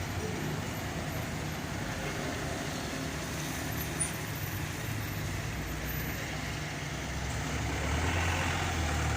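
Road traffic noise with a vehicle engine running steadily, growing a little louder near the end.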